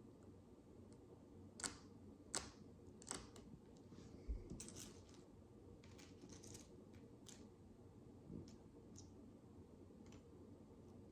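Micro building bricks being handled and pressed together: a few sharp plastic clicks in the first four seconds, one with a soft thump, then lighter scattered clicks and taps.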